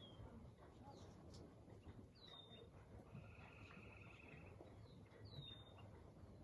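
Faint birdsong: one bird repeats a short downward-slurred whistle about every three seconds, and another gives a brief trill in between, over a low steady background hum.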